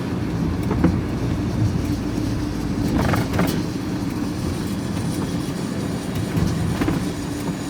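Vehicle engine and road noise heard from inside the cab while driving, a steady low hum with a few short knocks and rattles.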